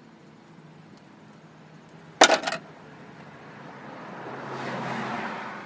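A brief, loud metallic clatter of several quick clicks about two seconds in, then a passing vehicle's rush of noise that swells and fades near the end.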